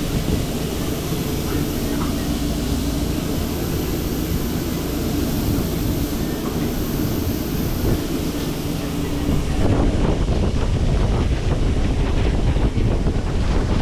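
Steady mechanical drone with a low hum, from the food truck's running kitchen equipment. About ten seconds in it gives way to a louder, rougher rumble like wind on the microphone.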